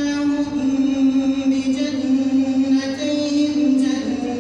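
A man reciting the Quran in melodic chanted tajweed style, holding long drawn-out notes. The pitch steps up a little about three seconds in and falls back near the end.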